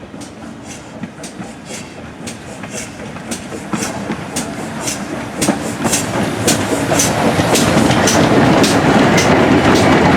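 Train wheels clicking rhythmically over rail joints, about two clicks a second, over a running rumble that grows steadily louder.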